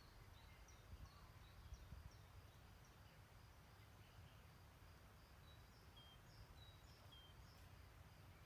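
Faint birdsong: many short, high chirps and calls from birds, scattered throughout, over a low steady rumble.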